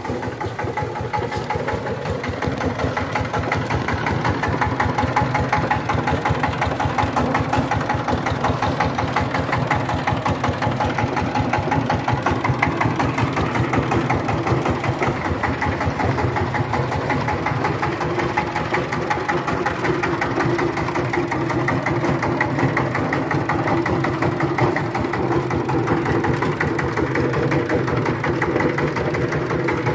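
Power tiller's diesel engine running steadily, growing louder over the first few seconds.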